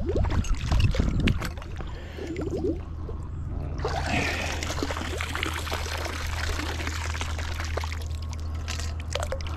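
Water pouring and splashing out of a length of old metal pipe just hauled from the water on a fishing magnet, running steadily from about four seconds in and easing off near the end, with a few knocks before it.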